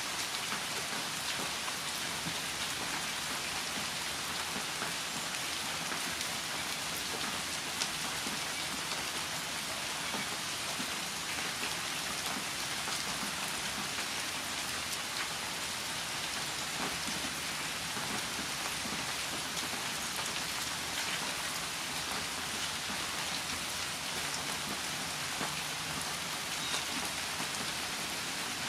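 Steady rain falling, a constant hiss of rain with many small drop ticks throughout.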